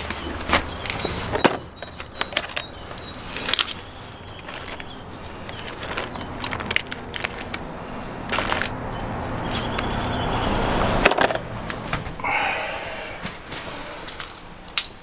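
Irregular knocks, clicks and cracking of sticks and gear being handled and set in place, over a low rumble.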